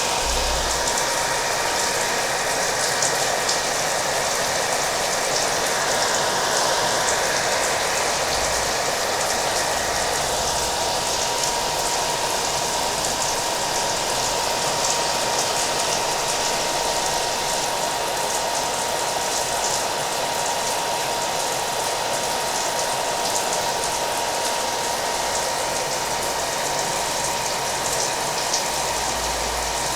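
A hair dryer running steadily, its airflow hiss and a thin steady motor whine, mixed with the patter of falling rain.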